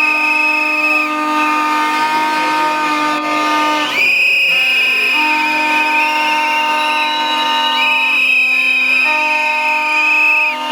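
Protest whistles and horns blown together in long, steady blasts, several pitches at once, with fresh blasts starting about four seconds in and again near eight seconds.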